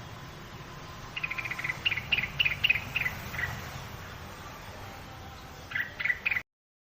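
Cak wilis (rengganis) bird call: a fast run of short, high chirping notes that slows and falls a little in pitch over about two seconds, then three more notes near the end before the sound cuts off abruptly. A low steady hum sits underneath.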